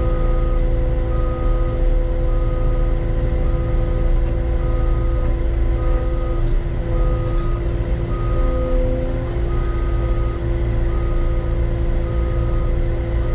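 Heavy-equipment diesel engine running steadily while a backup alarm beeps, about one beep a second.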